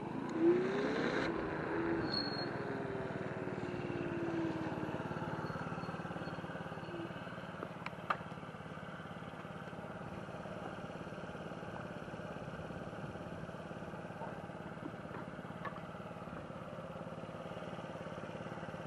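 Steady low vehicle hum with a whine that rises and then falls over the first few seconds, and a single sharp click about eight seconds in.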